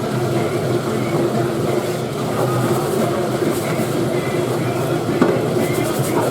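Steady loud running noise of a commercial dishwasher in a restaurant dish room, a constant hum with one sharp click about five seconds in.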